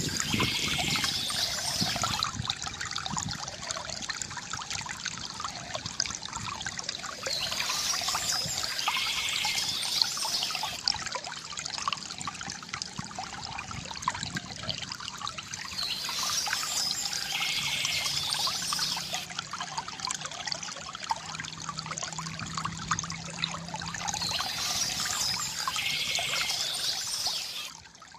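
Stream water trickling and splashing steadily, with a high-pitched bird song phrase returning about every eight seconds.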